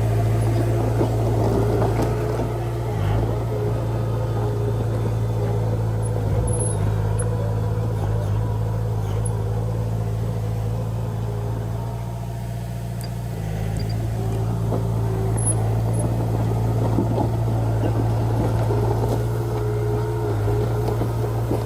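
Komatsu D20P crawler bulldozer's diesel engine running steadily under work, easing off briefly about twelve seconds in before picking up again, with scattered light clanks.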